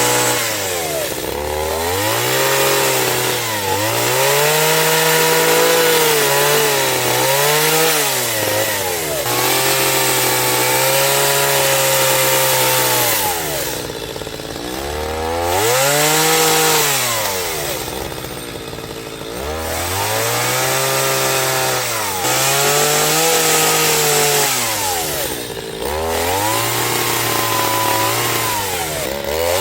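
Chainsaw running under cutting load. Its pitch repeatedly sags as the chain bites into wood and climbs back as it clears, about every two to four seconds.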